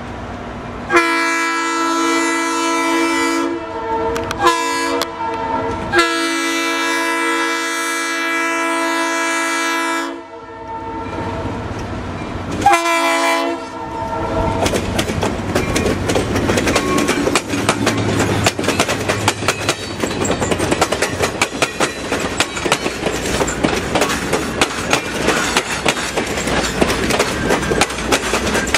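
Seminole Gulf Railway dinner train's locomotive air horn sounding a multi-note chord in four blasts, the third the longest, the crossing signal for the grade crossing ahead. From about halfway on, the train passes close by: the locomotive's engine rumbles and the wheels clatter over the rail joints.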